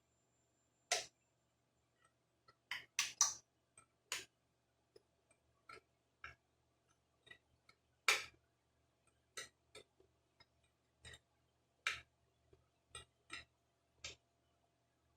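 Hand tools and small metal parts clicking and clinking irregularly, a sharp tick every half second to second, with a quick cluster of three about three seconds in.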